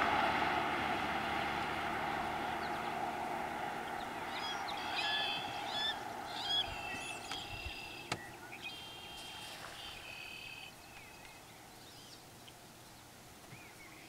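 An engine drone fading away over the first few seconds. Then marsh birds give a series of short, high calls from about four to ten seconds in, with one sharp click near eight seconds.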